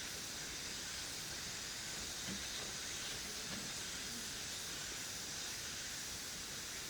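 A steady, high-pitched hiss that holds level throughout.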